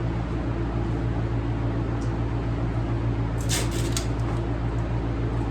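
Steady low machine hum, with a quick run of three or four light, sharp taps about three and a half seconds in.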